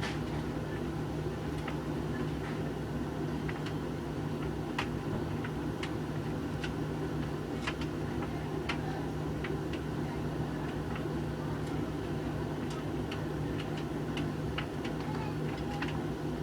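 Hoover VHV680C tumble dryer running with a load of coloured clothes: a steady motor and fan drone with a constant low hum, and irregular light clicks as the load tumbles in the drum.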